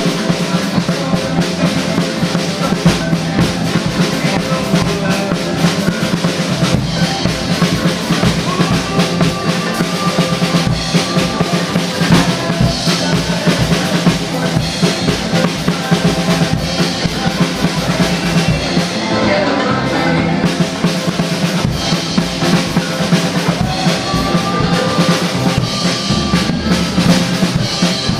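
DW Collectors Series drum kit played in a steady rock groove, with kick drum, snare and cymbals, over a recorded backing song.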